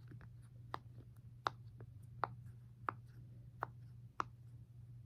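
Silicone pop-it fidget toy having its bubbles pressed in one after another, a soft pop about every 0.7 seconds, with fainter pops between.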